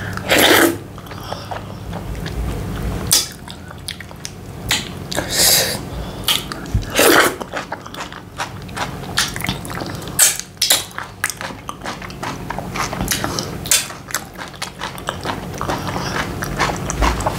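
Close-miked chewing and wet mouth sounds of a person eating semolina fufu with slippery ogbono soup by hand: irregular smacks and clicks throughout.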